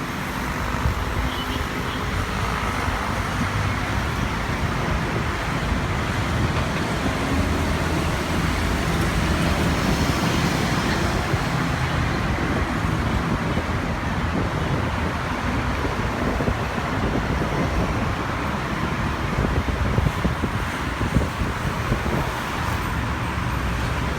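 Steady rumble and hiss of road traffic, with no sudden events.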